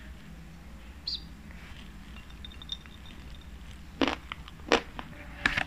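Close-miked eating sounds: after a quiet stretch, three sharp, short wet mouth smacks start about four seconds in, as a hand-fed mouthful of biryani rice is chewed.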